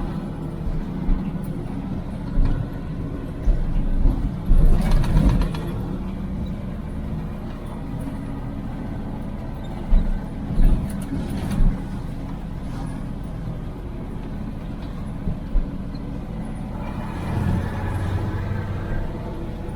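IFA L60 truck's diesel engine running steadily, heard from inside the cab, with loud knocks and rattles from the truck about four to five seconds in and again about ten to eleven seconds in.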